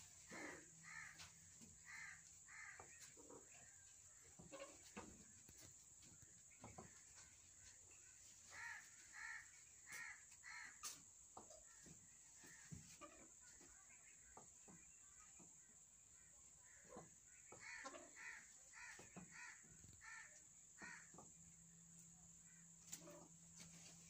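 Birds giving short, harsh calls, several in quick succession in each run, in three runs with pauses between them; faint.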